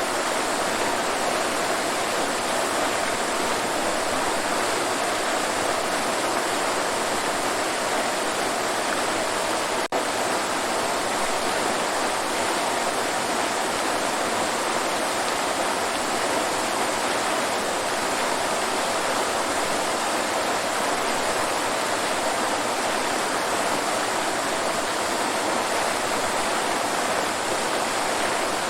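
Waterfall rushing steadily, an even roar of falling water with a brief break in the sound about ten seconds in.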